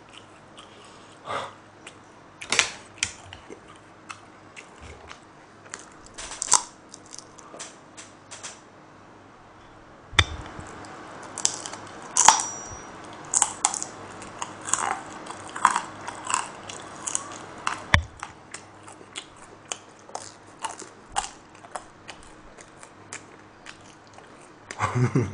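A person chewing food close to the microphone: irregular wet mouth clicks and smacks, busier from about halfway through.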